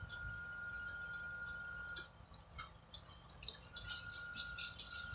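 Faint room tone: a low hum with a thin, steady high tone that breaks off about two seconds in and comes back near the end, and scattered faint ticks.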